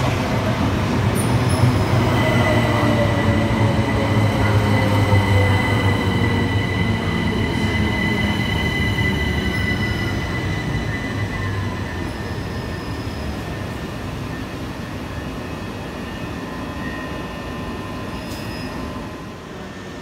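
Southern Class 377 Electrostar electric train passing and drawing away. A deep rumble and a whine falling in pitch peak in the first few seconds, with a steady high wheel squeal, then the sound fades over the second half.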